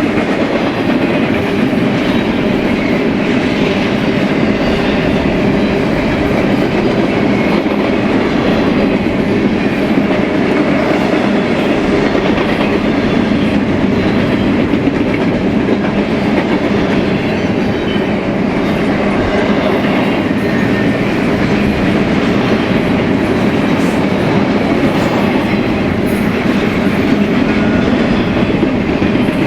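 BNSF freight train cars rolling past at steady speed, a continuous rumble of steel wheels on rail with clickety-clack over the joints.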